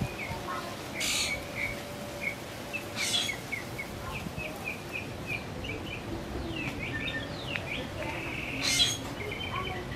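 Small birds chirping over and over in short high notes, with a few quick downward-sweeping calls about two-thirds of the way through. Three brief noisy bursts break in, the loudest near the end.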